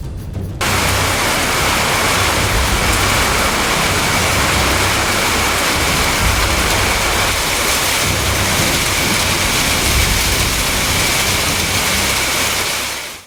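Heavy rain pouring down in a severe thunderstorm, a dense steady hiss with a faint steady whine running through it, fading out near the end.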